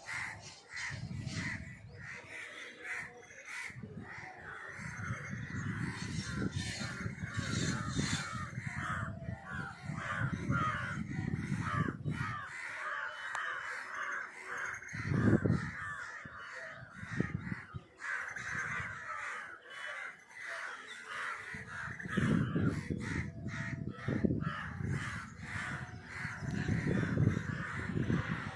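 A large flock of crows cawing, many calls overlapping without a break. Low rumbles come and go, the loudest about halfway through.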